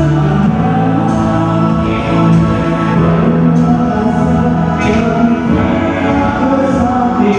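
Band music with slow, sustained chords and singing, played during a sound check.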